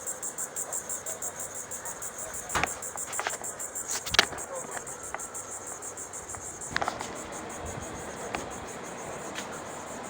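Insects chirping in a fast, even, high-pitched pulse, with a few light knocks and clicks.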